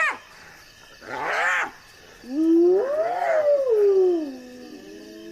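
Spotted hyenas calling at a kill. A short harsh call comes about a second in, then a long wailing call that rises in pitch and slides back down.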